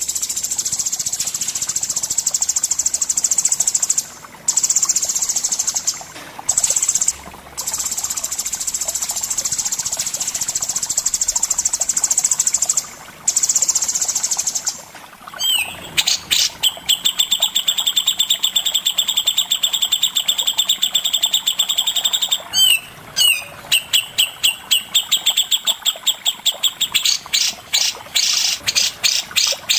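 Caged songbird singing a masteran song: a long, continuous high buzzing trill broken by a few short gaps, then, about halfway through, a fast series of sharp repeated chirps, several a second.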